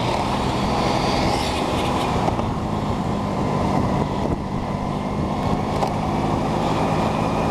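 Moped scooter under way: its small engine running steadily under a dense haze of wind and road noise.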